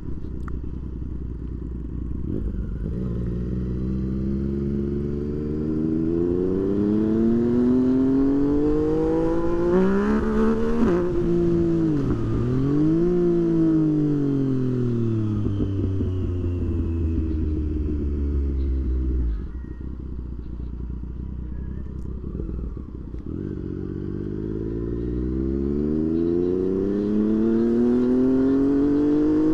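Motorcycle engine under way: the revs climb for several seconds, ease off and fall away about halfway through, then climb again near the end.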